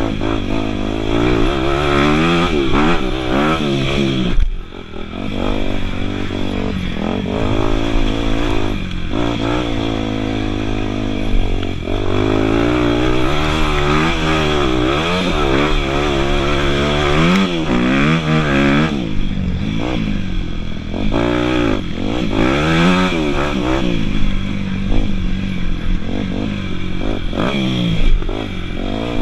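Dirt bike engine revving up and down over and over as the throttle is rolled on and off, with a brief drop in engine sound about four seconds in.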